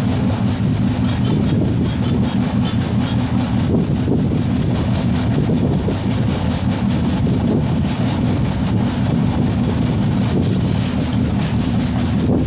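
Kaifiyat Superfast Express running at speed: a loud, steady low rumble of wheels on rail.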